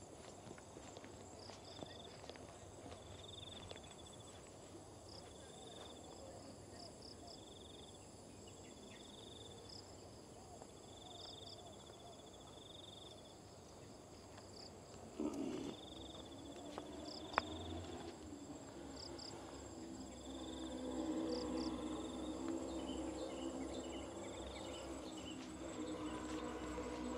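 Tropical insect chorus holding steady high tones, with a short call repeating about once every second or two and footsteps on the path. From about halfway, indistinct voices of passers-by rise underneath.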